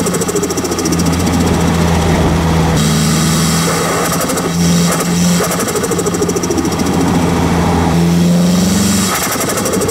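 Turbocharged SR20 engine of a Nissan Silvia S15, heard close up at the turbo's pod-filter intake while driving: steady engine running with intake noise, its pitch stepping slightly up and down.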